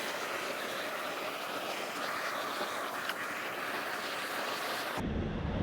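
Waterfall's rushing water, a steady hiss. About five seconds in it switches abruptly to a duller, deeper rumble.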